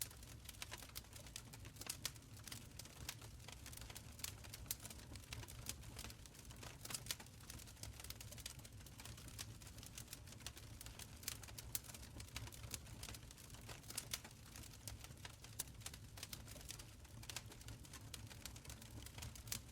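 Wood fire burning in a stone fireplace: a soft low rumble of flames under many irregular sharp crackles and pops.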